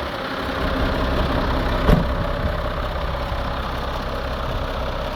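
Iveco Eurocargo 100E18 truck's diesel engine idling steadily, with a single short knock about two seconds in.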